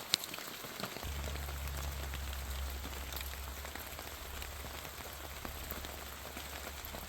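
Rain falling on persimmon leaves and fruit: a steady patter with scattered single drops ticking, one sharper hit just after the start. A low steady hum comes in about a second in.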